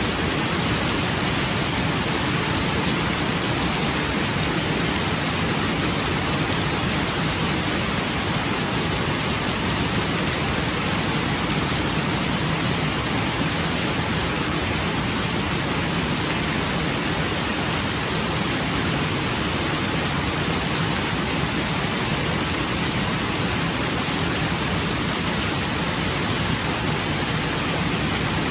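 Steady rain falling: an even, unbroken hiss with no distinct drops or thunder standing out.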